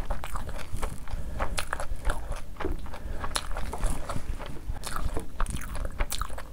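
Close-miked wet chewing and lip smacking from a full mouth of food, with many irregular sharp clicks.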